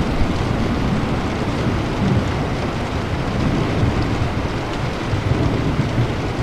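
Steady rain falling, with a low rumble of thunder rolling underneath.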